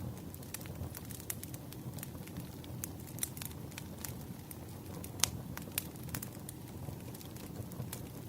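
Firewood burning: a steady low rumble of the fire with irregular sharp crackles and pops from the wood, one louder pop about five seconds in.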